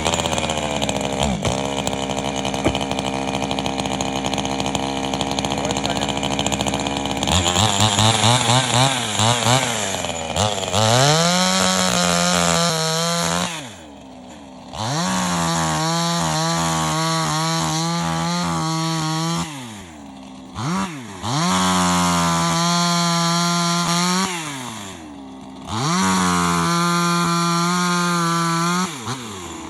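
Chainsaw cutting firewood, run at full throttle in several bursts of a few seconds each. Between the bursts the engine drops back briefly toward idle.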